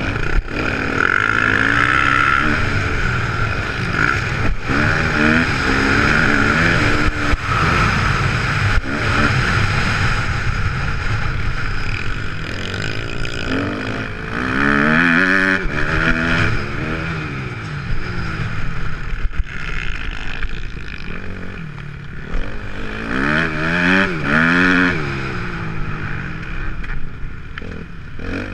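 Motocross bike's four-stroke engine, a Kawasaki KX250F, revving hard and falling back again and again as the rider accelerates and shifts around the track.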